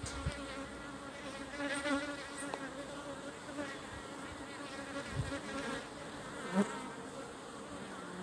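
Honeybees buzzing in flight around their hive entrances, a steady hum with individual bees' wavering tones coming and going as they pass close; one bee passes loudest about six and a half seconds in.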